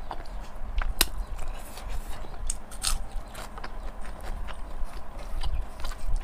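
Close-miked chewing and lip-smacking of people eating pork and rice by hand: a scatter of wet clicks and smacks, with one sharp click about a second in.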